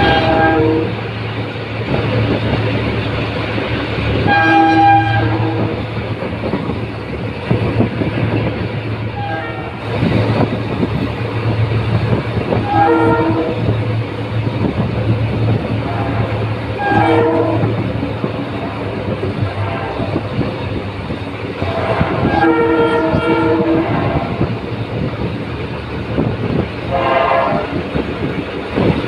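Diesel trains running on the rails with a steady low engine drone and wheel noise, while a multi-tone locomotive horn sounds in short blasts every few seconds, with a longer stretch of horn a little past two-thirds of the way through.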